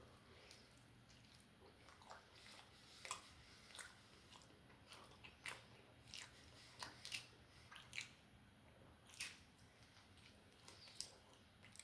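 A person chewing and biting food close to the microphone. It is quiet for about the first two seconds, then comes a run of irregular short, sharp mouth clicks.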